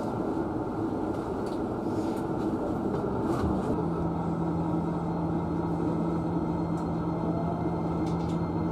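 Hankyu 9300-series electric train heard from just behind the driver's cab: a steady rumble, with a low steady hum that comes in about four seconds in and holds.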